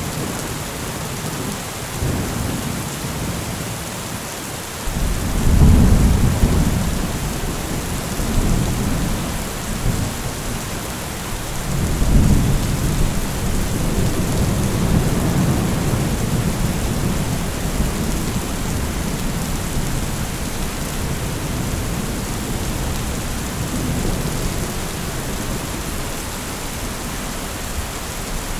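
Heavy rain falling steadily, with thunder: a loud low rumble breaks in about five seconds in and rolls for a couple of seconds, and a second, longer rumble rolls from about twelve seconds in.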